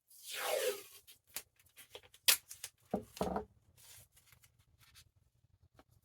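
Painter's tape being pulled off its roll with a short rasp that falls in pitch, then crackling and clicking as the tape is handled, with a sharp click a little past two seconds and a dull knock around three seconds in.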